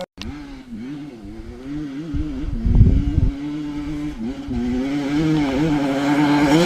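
Motorcycle engine running with the throttle worked on and off, its note rising and falling. A low rumble comes in about two seconds in, and near the end the engine revs higher and louder.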